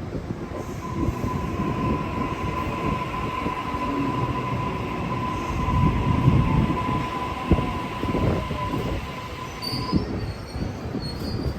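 Sydney Trains suburban electric train moving along the platform, with a steady wheel squeal that stops near the end, over a low rumble and a few sharp knocks from the wheels.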